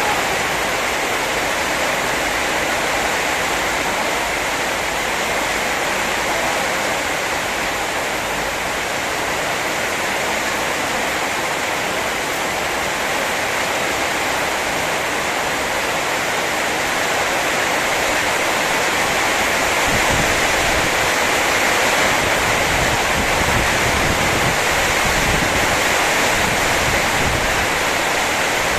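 Heavy rain pouring steadily in a rainstorm, a dense, even hiss of falling water, with some low rumbling coming in during the second half.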